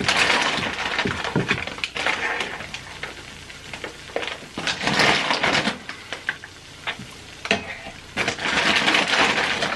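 Food sizzling and crackling in a frying pan while a utensil stirs and clatters against the pan, with louder spells of sharp clicks and scraping near the start, around the middle and near the end.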